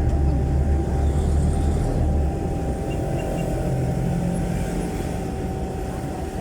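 Jeepney's Isuzu 4BC1 four-cylinder diesel engine running through a very loud muffler, heard from inside the passenger cabin, with a steady thin whine over it. Its deep low note drops away about two seconds in, leaving a lighter, slightly quieter engine sound.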